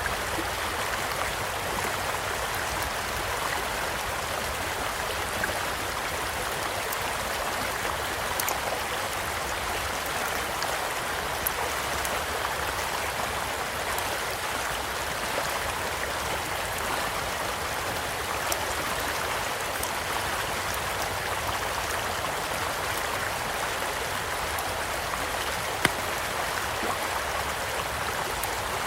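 Steady rushing of a shallow stream, with a few scattered sharp crackles and pops from a campfire, the loudest pop a few seconds before the end.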